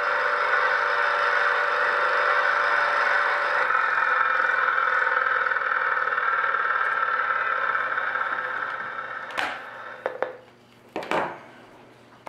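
Electronically generated Hammond B3 start-up grinding noise from a noise-generator board: a dense, steady mechanical-sounding grind that dies away about two-thirds through. A few sharp clicks follow near the end.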